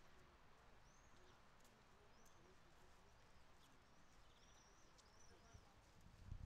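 Near silence with faint bird chirps: a few short arched high notes scattered through, and a couple of low thuds near the end.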